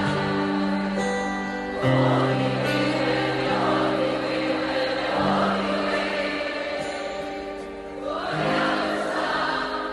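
A large crowd singing a chant together in unison, with long held notes over a wash of crowd noise.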